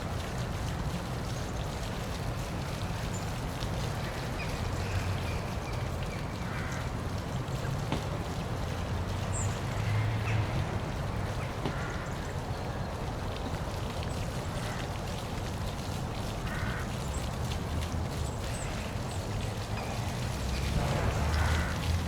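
Waterfall splashing steadily, with a deep low rumble under the rush of water. A few short calls sound now and then over it, the strongest near the end.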